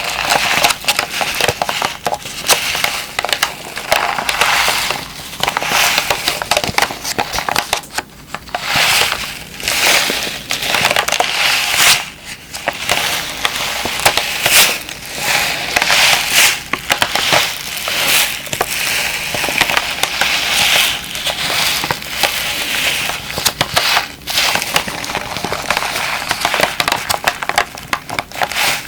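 A moisture-absorber (dehumidifier) pack being squeezed and crumpled by hand, giving dense crinkling and crunching, with brief lulls about 8, 12 and 24 seconds in.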